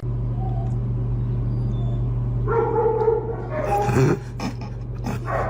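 A dog whining in two drawn-out cries, one held for about a second midway and a shorter falling one just after, over a steady low hum.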